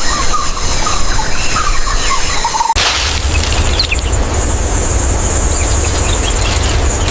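Forest ambience: short chirping bird calls over a steady high buzz. A little under three seconds in it cuts abruptly to a different bed, a steady high hiss over a low rumble.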